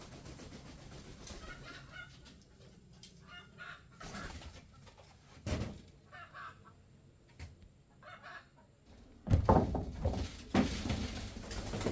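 Chickens clucking in short repeated calls, with a couple of loud knocks or handling thumps about nine and ten and a half seconds in.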